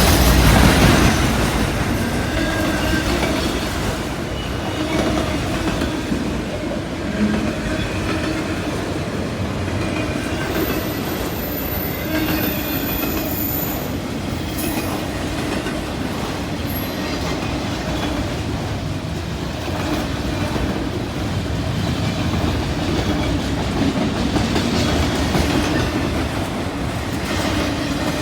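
Freight train cars rolling past steadily, wheels clacking over rail joints.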